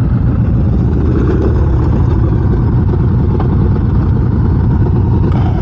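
Motorcycle engine running steadily at low revs, a dense low-pitched sound that holds level throughout.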